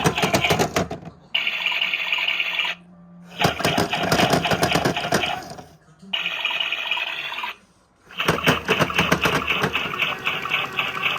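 Toy washing machine running in spurts, its small motor and drum rattling fast, alternating with steadier humming stretches and broken by short pauses about three, six and eight seconds in.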